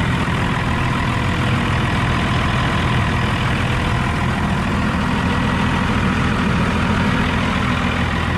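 Dodge Cummins inline-six turbo diesel idling steadily, still cold, just after catching on a cold start without the block heater.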